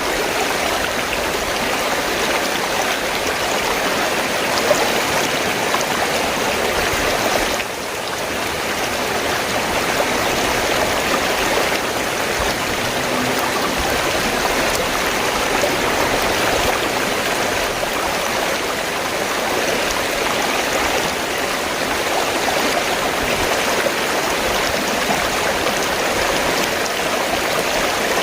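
River water flowing: a steady rush of running water, with a brief dip in level about eight seconds in.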